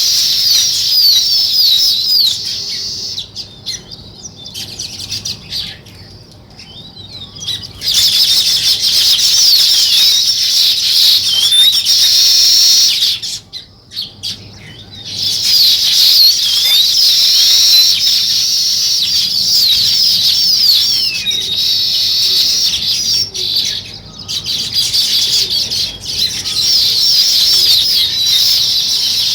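A flock of sparrows chirping together in a dense, continuous chatter of quick, overlapping chirps. The chorus falls quieter for a few seconds twice, about three seconds in and again near the middle.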